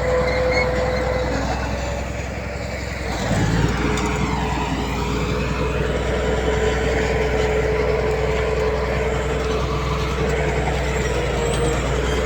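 Heavy diesel earthmoving machinery running, with a steady engine drone and whine. It eases off slightly about two seconds in and picks up again about three and a half seconds in.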